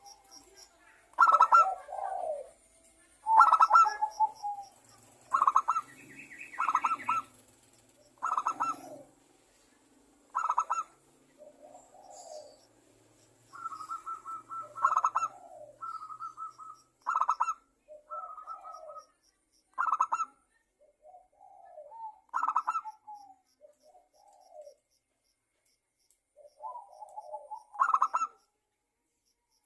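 Zebra dove (perkutut) cooing: short, repeated phrases of clipped coo notes with lower gliding notes between them, every one to two seconds with brief pauses, fewer and softer after the middle.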